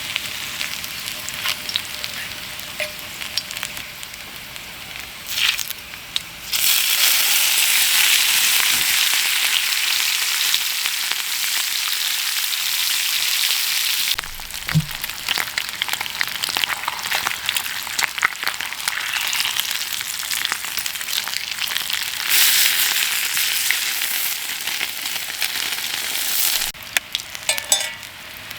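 Rain falling as a steady hiss, heavier in two spells that start and stop abruptly, one about a quarter of the way in and one near the end, with a few clicks toward the end.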